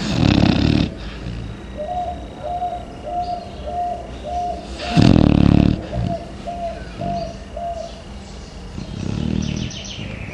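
A Chow Chow dog snoring in deep sleep: a loud snore at the start, another about five seconds in, and a softer one near the end.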